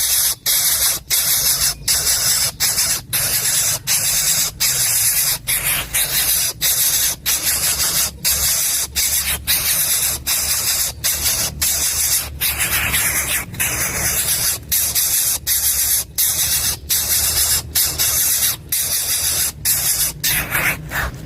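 Coucal nestling giving a loud, continuous rasping hiss in rhythmic pulses, a little more than one a second.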